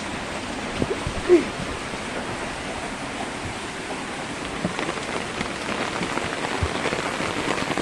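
Heavy rain pouring down: a steady hiss of rain on surfaces, with scattered louder drops and knocks.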